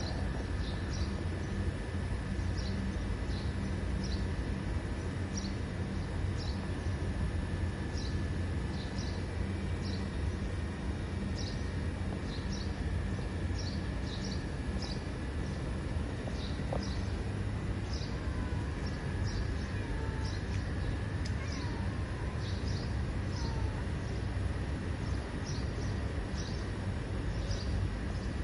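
Short, high bird chirps repeating about once a second, often in pairs, over a steady low outdoor rumble.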